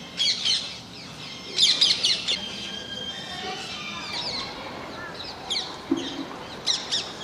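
Parrots calling: short runs of shrill, rapid chirps, about five times.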